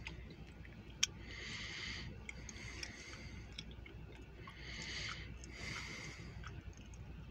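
A person breathing close to the microphone, soft hissing breaths coming in and out every second or two over a faint low rumble, with one sharp click about a second in.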